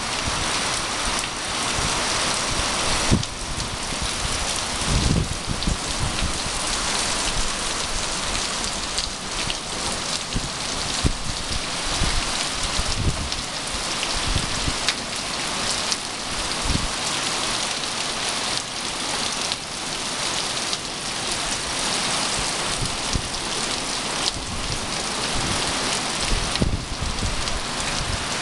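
Heavy hurricane rain pouring down steadily, with wind gusts adding a few brief low rumbles.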